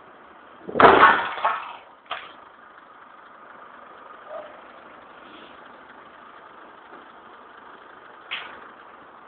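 Demolition machinery running with a steady hum, broken about a second in by a loud, heavy crash lasting about a second, then sharp knocks about two seconds in and near the end.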